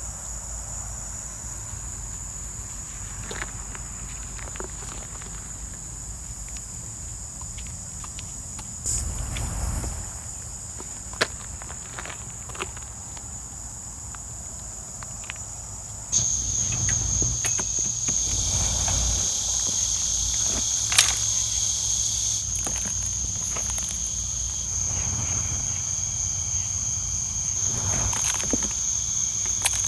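Insects singing in a steady high-pitched trill, which grows louder and fuller about halfway through, with a few scattered light clicks and knocks.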